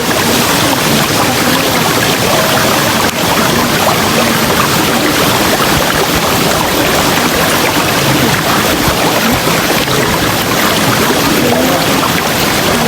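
River water rushing steadily, with some gurgling.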